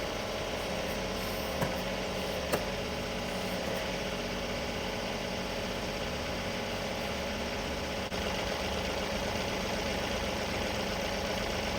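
Tractor engine running steadily, with two short sharp clicks about one and a half and two and a half seconds in, and a brief dip at about eight seconds after which it runs slightly louder.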